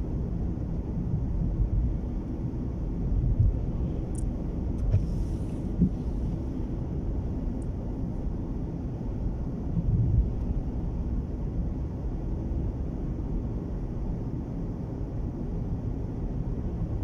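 Steady low rumble of a car driving at speed, heard from inside the cabin: tyre, engine and wind noise as strong gusts buffet the car, with a few brief bumps along the way.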